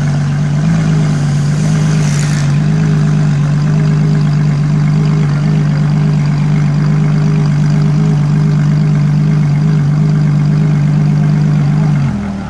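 Ferrari LaFerrari's V12 idling steadily at the kerb, one even engine note; near the end the idle note drops away and the sound gets quieter.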